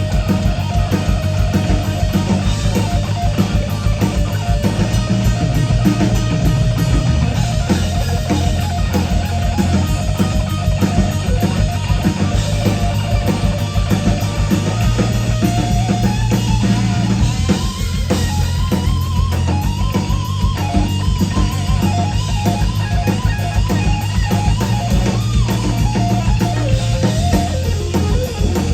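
Rock band playing an instrumental passage: electric guitar lead over drum kit and bass, with bent, wavering notes in the second half.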